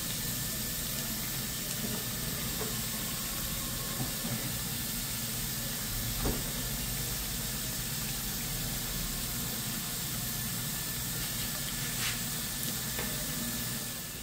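Ripe plantain slices frying in hot oil in a pan, a steady sizzle, with a few light clicks as tongs turn the slices against the pan.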